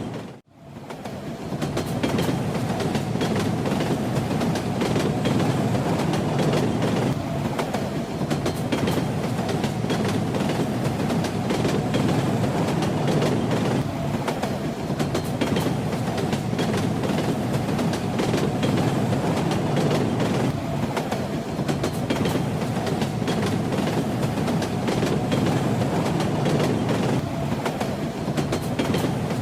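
Train wheels clattering steadily over the rail joints, with a continuous rumble of the moving carriage. The sound drops out briefly about half a second in and fades back up within a second.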